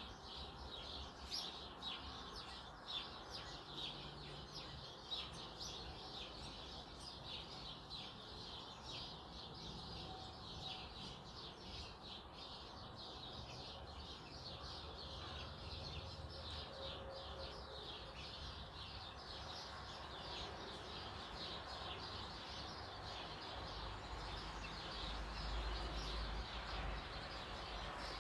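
Many small birds chirping, short overlapping calls in a steady stream. A low rumble comes in near the end.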